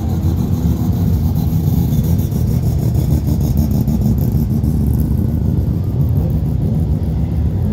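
Mazda rotary engines in a line of cars, including FC RX-7s, driving slowly past one after another, running low and steady at parade pace.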